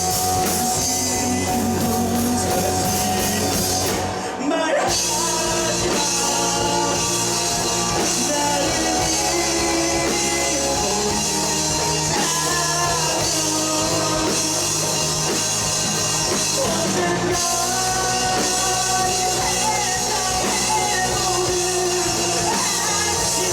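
Live rock band with two electric guitars, bass guitar and drum kit playing loudly together. About four seconds in the band cuts out for half a second and crashes back in.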